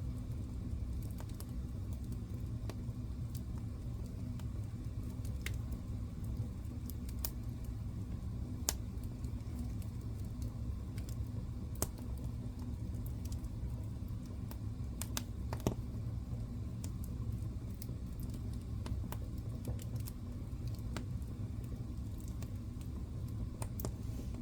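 Wood fire crackling in a fireplace: a steady low rumble of the flames with scattered sharp pops and snaps, the loudest about 9, 12 and 16 seconds in.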